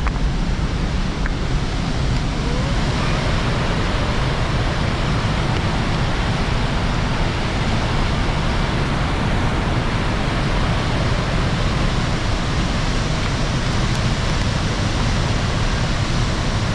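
Steady, unbroken rush of fast-flowing Penna River floodwater.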